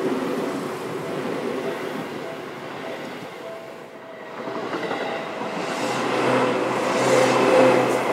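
Train running through a Japanese level crossing, its rushing wheel and body noise swelling from about halfway through, over the steady ringing of the crossing's electronic warning bell.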